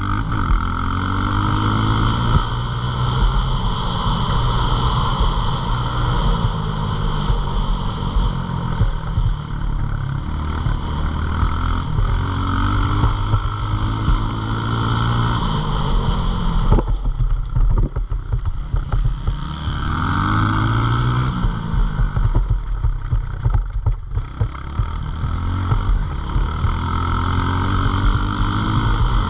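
Pit bike engine revving hard and running up through the gears, its pitch climbing again and again. It eases off briefly twice in the second half.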